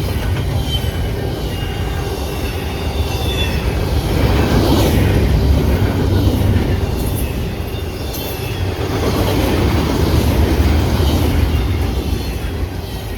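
Freight train rolling past: a steady, loud rumble of wheels on rail that swells twice, with a light high wheel squeal in the first few seconds.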